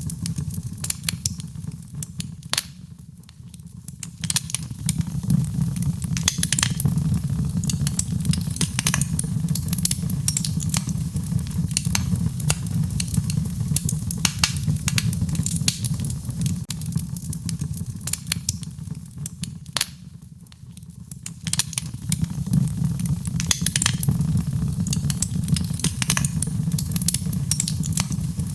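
Fire in a fireplace crackling, with frequent sharp pops over a steady low rumble. The rumble and crackle briefly die down twice, about three seconds in and again about two-thirds of the way through.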